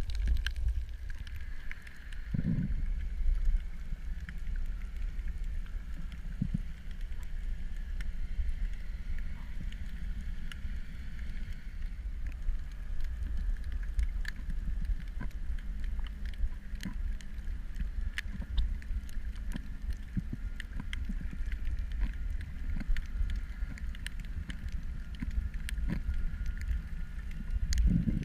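Underwater ambience on a reef dive: a steady low rumble with a constant higher hum and many scattered sharp clicks, plus one brief low thump a couple of seconds in.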